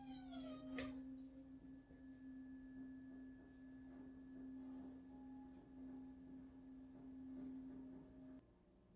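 Faint, steady low drone tone from a horror film's soundtrack, opening with a short falling wail and a sharp click about a second in. The drone cuts off suddenly near the end.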